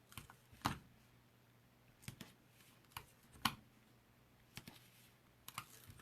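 Paper and cardstock being handled: about half a dozen light, sharp clicks and taps with faint rustling in between.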